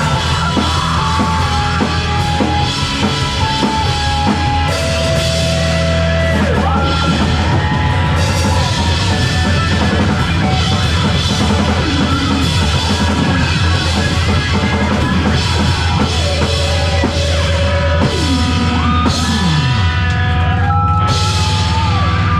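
Live rock band playing an instrumental passage: drum kit, bass and a lead melodic line that slides in pitch, with a long downward slide near the end.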